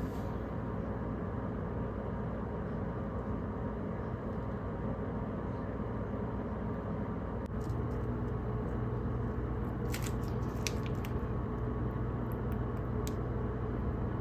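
Steady low hum of background noise, with a few faint light clicks about two thirds of the way through.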